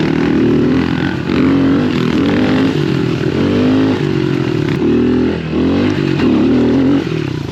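110cc pit bike engine revving up and down as the bike is ridden, its pitch rising and falling about once a second.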